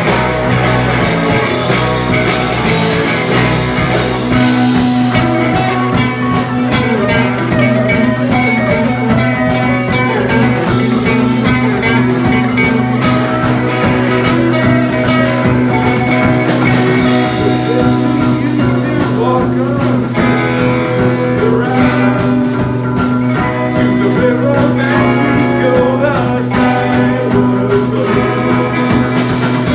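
Psychedelic rock band playing an instrumental jam live, with electric guitars, bass and drums; a low held bass note enters about four seconds in.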